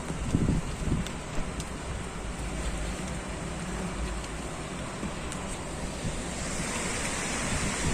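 Heavy typhoon rain with gusting wind, a steady rushing hiss. A few low wind buffets hit the microphone in the first second, and the rain grows louder and brighter about six seconds in.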